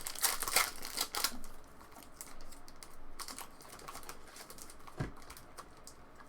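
Trading cards and pack wrappers being handled: a quick run of crinkles and light clicks in the first second or so, then sparser ones, with a single dull knock about five seconds in.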